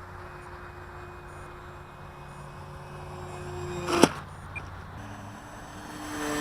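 Battery-electric motor and propeller of a radio-controlled foam Crack Pitts plane running at a steady pitched whine. About four seconds in there is a single sharp smack. After that the motor note changes pitch and grows louder near the end.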